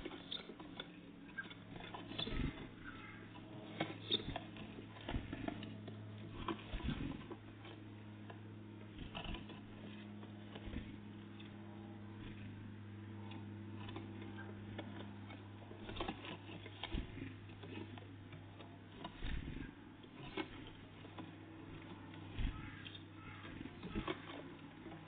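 Small birds (great tits and blue tits) pecking and landing at a feeding spot: irregular light taps and knocks over a steady low hum.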